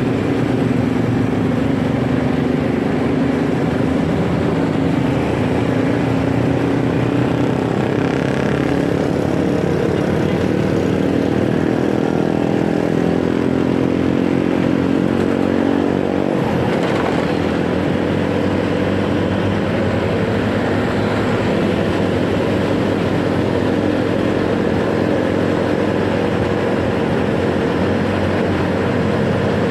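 Motorcycle riding in city traffic: the engine runs under steady wind and road noise, its pitch climbing as it speeds up from about a quarter to halfway through.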